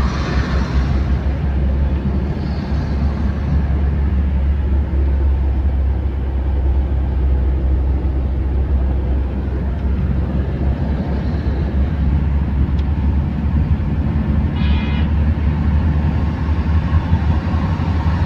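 Car driving on a road: a steady low rumble of engine and road noise, with a short higher-pitched tone, like a horn toot, about fifteen seconds in.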